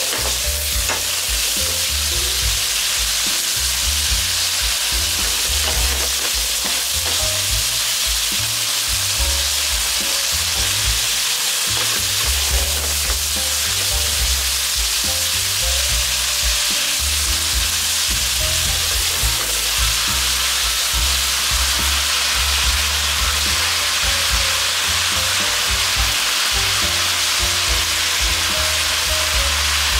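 Thinly sliced pork sizzling steadily in a hot oiled wok over a high gas flame, stirred with chopsticks.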